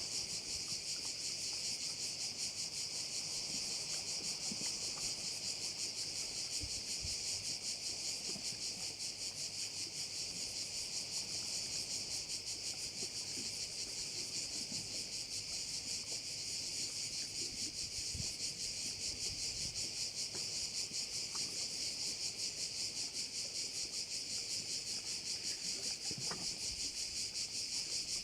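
A chorus of cicadas buzzing continuously in a steady, rapidly pulsing, high-pitched drone, with a few faint low knocks beneath.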